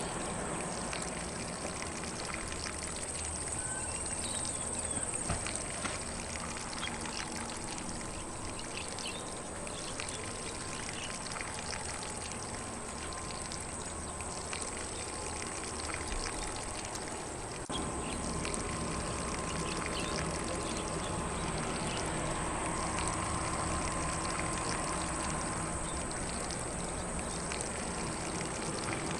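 Lawn sprinkler spraying water across grass in a steady, even hiss, with faint bird calls in the distance.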